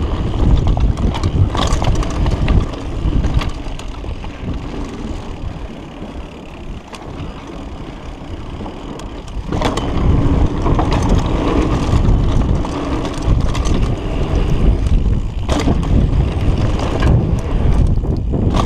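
Mountain bike descending a dirt downhill trail: wind rushing over the microphone, tyres rolling over dirt, and the bike clattering and knocking over bumps. It eases off for a few seconds in the middle and picks up again about halfway through.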